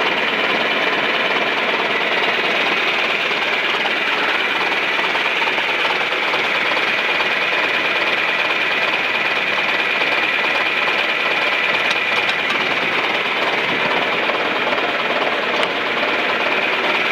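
John Deere 3020's four-cylinder diesel engine running steadily at an even speed, with a fast, even clatter.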